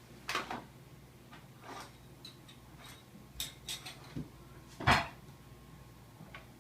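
Plastic forks and knives clattering and an empty paper sack rustling as kittens bat them around: scattered clicks and scrapes, with the loudest clatter about five seconds in.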